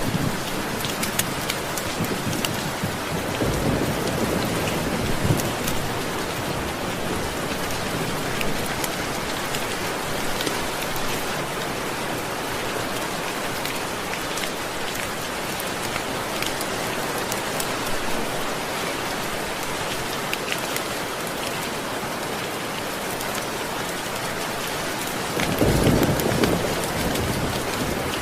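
Steady rain falling, with scattered drop ticks and low rumbles of thunder swelling about three seconds in and again near the end.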